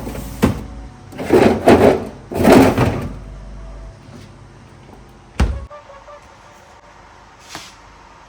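Household handling noises: two loud scraping swishes a second apart, then a single sharp thump about five seconds in and a faint click near the end.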